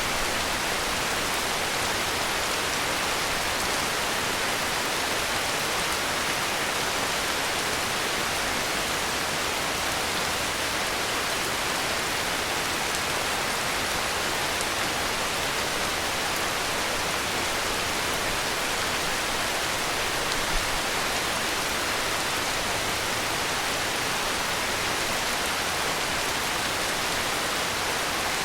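Heavy rain falling steadily, an even hiss with no let-up, with one brief low bump about two-thirds of the way through.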